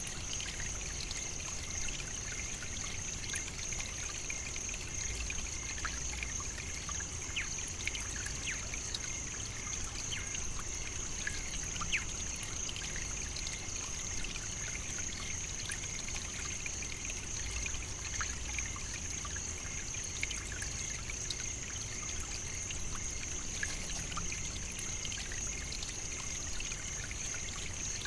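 African savannah nature ambience: an unbroken high-pitched drone with a fainter lower one, a steady trickling hiss, and many small scattered ticks.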